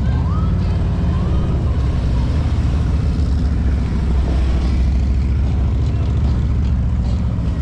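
Harley-Davidson touring motorcycle's V-twin engine running steadily at low revs as the bike is ridden slowly through tight turns.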